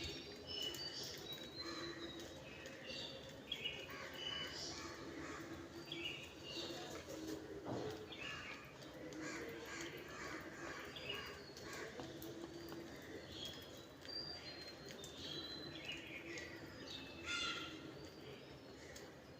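Several birds chirping and calling in short, scattered calls, with some harsher caw-like calls among them.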